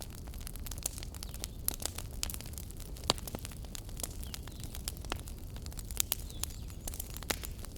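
Wood fire burning in a fireplace, a steady low rumble of flames with frequent sharp, irregular crackles and pops, the loudest pops a little after three seconds and about six seconds in.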